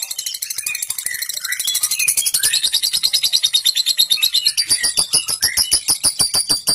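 Lovebird's long 'ngekek' chattering song: a rapid, unbroken run of harsh, high clicking notes, with short sweeping chirps woven through it.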